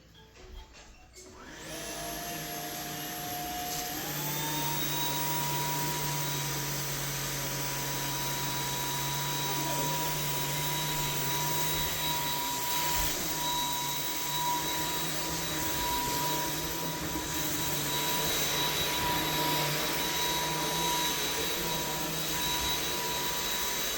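Samsung Jet 75 cordless stick vacuum switched on about a second and a half in and running steadily, with a high motor whine over a rushing air noise. The whine climbs in pitch about four seconds in and then holds steady until the vacuum is switched off near the end.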